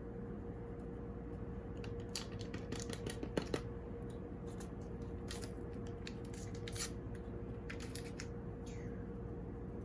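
Scattered small clicks, snips and crinkles of probiotic powder packets being opened and handled during cat-food prep, over a steady low hum.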